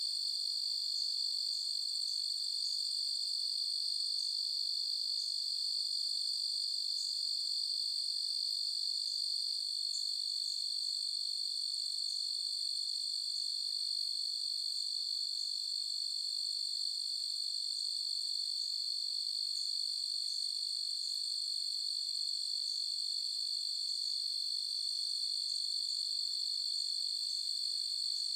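Crickets trilling in a steady, unbroken high chorus, with faint scattered higher chirps over it.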